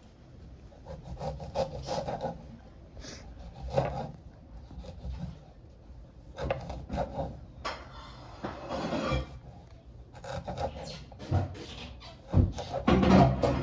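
Irregular scraping and knocking on wood: food being prepared by hand.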